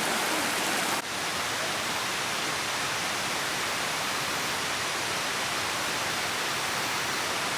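Steady rushing roar of a waterfall, with a brief dip and a slight change in its sound about a second in.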